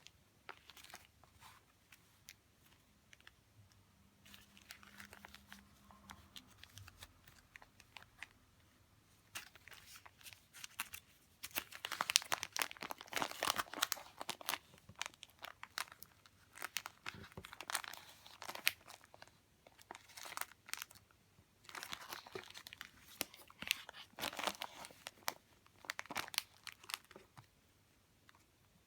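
Paper and plastic wrappings crinkling and rustling as they are handled and opened, with a few light taps and clicks at first and dense spells of crinkling from about midway.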